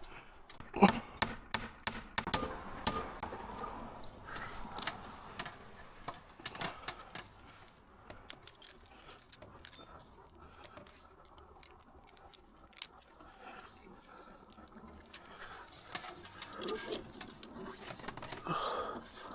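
Scattered light clicks and metallic jingling of hardware or tools being handled, busiest in the first few seconds, with a thin high whine near the start.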